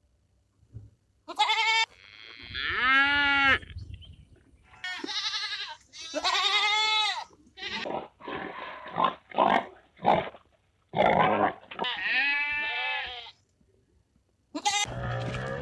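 Goats bleating again and again: several long, quavering calls with shorter bleats between them.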